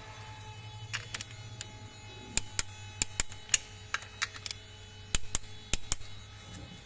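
Irregular sharp clicks and taps of hand tools and small metal parts during engine work, over a steady hum that starts and stops.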